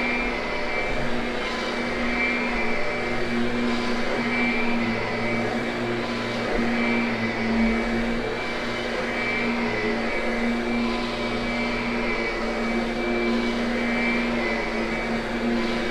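Kirby upright vacuum cleaner running steadily as it is pushed over carpet. Its motor holds a steady hum with a higher whistle over it.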